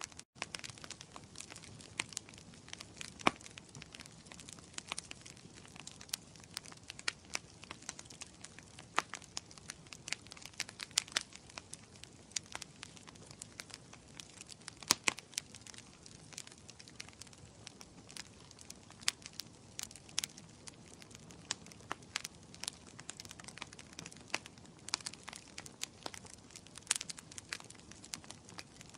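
Wood fire in a fireplace crackling: irregular sharp pops and snaps over a soft hiss.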